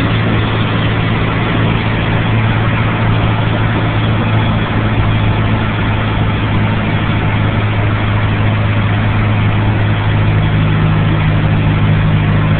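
Cessna 152's four-cylinder Lycoming engine and propeller droning steadily, heard from inside the cabin through a phone, with a constant rush of noise over the engine hum.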